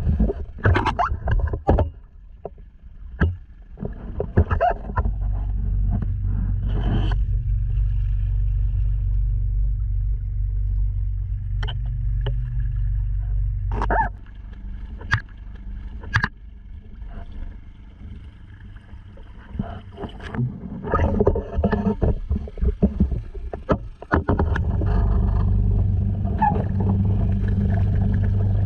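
Honda 2.3 hp single-cylinder four-stroke outboard motor running with a steady low hum. The hum drops away for about ten seconds in the middle and comes back strongly near the end. Sharp knocks and splashes are heard throughout.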